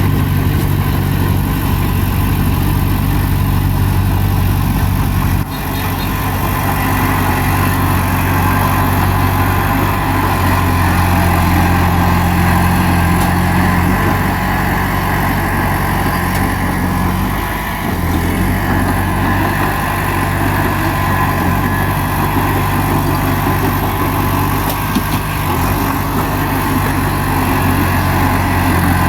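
Bulldozer's diesel engine running steadily, easing off briefly about two-thirds of the way through.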